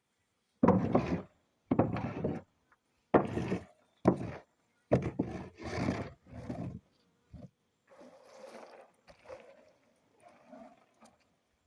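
Wooden rake strokes scraping and rattling cacao beans spread to dry on a drying platform, about one stroke a second, fainter after about eight seconds.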